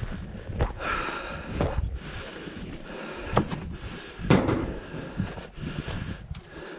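Repeated scraping and crunching in snow at a quick, uneven pace, with two sharp knocks a little past the middle.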